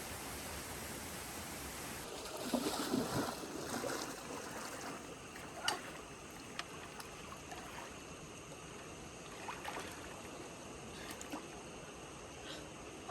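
Water splashing and sloshing, loudest for a couple of seconds near the start, with a few sharp knocks and clicks after it.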